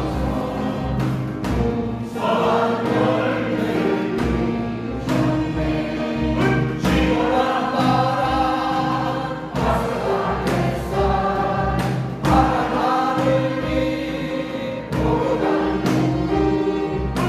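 Church choir singing a Korean praise song in parts, over instrumental accompaniment with a steady beat.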